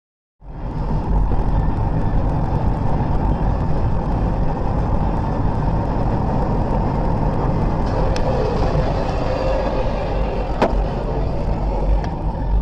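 A car driving, its engine and road noise running steadily as picked up by a dashcam, starting abruptly at a new clip, with one sharp click late on.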